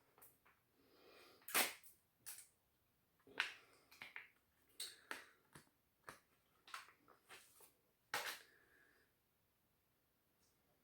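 Handling of a sheet-mask packet: about a dozen short, sharp crinkles and clicks at irregular intervals, the loudest about a second and a half in and about eight seconds in.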